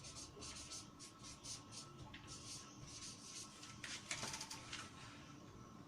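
Faint scratching of a pen writing, a run of short quick strokes with a denser flurry about four seconds in.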